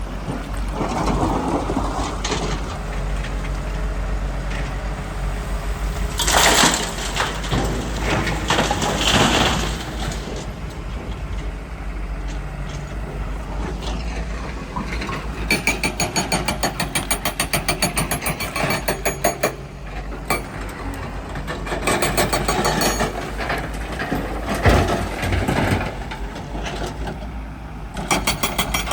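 Diesel engines of heavy earthmoving machinery and trucks running steadily. There are two louder surges of noise about six and nine seconds in, and a fast rhythmic clatter a little past halfway.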